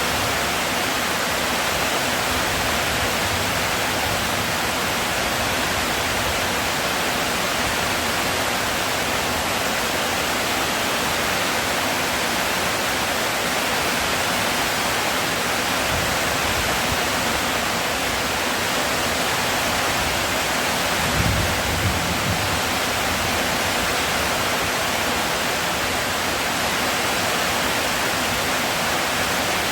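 Heavy rain falling, a steady even hiss. A brief low thump comes about two-thirds of the way through.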